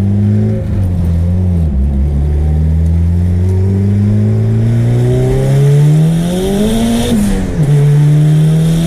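Turbocharged Honda B-series four-cylinder engine heard from inside the cabin, accelerating in gear under light throttle. Its pitch climbs steadily for several seconds, drops at a gear change about seven seconds in, then rises again. It is pulling cleanly on a revised tune.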